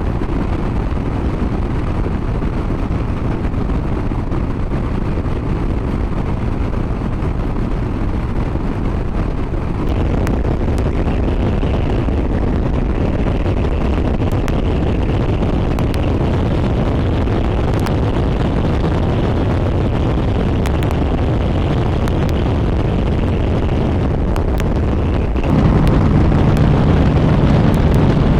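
Harley-Davidson Road Glide's V-twin engine running under way, with steady wind rush over the microphone. It gets louder about ten seconds in, and again near the end, where a steady low engine hum comes up.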